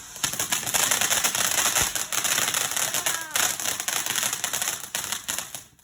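Firework crackling: a dense, fast run of sharp crackles over a fizzing hiss that cuts off suddenly near the end.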